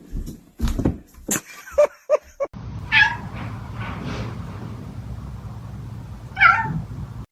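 A cat meowing: a few short calls and knocks, then two drawn-out meows that fall in pitch, about three and a half seconds apart, over a steady low hum.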